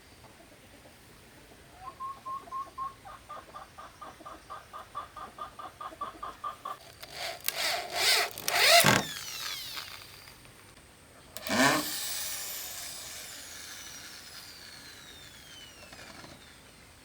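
Bamboo being worked with hand tools: a run of quick rhythmic strokes, about four to five a second, speeding up, then loud cracking noises, and a sudden loud crack about two-thirds of the way in that fades out slowly.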